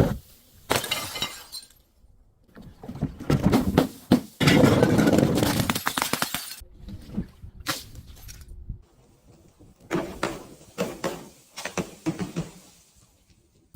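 Glass breaking and being crushed: a series of shattering crashes and crunches, with a long loud crunching spell from about four to six and a half seconds in and a run of short sharp smashes near the end.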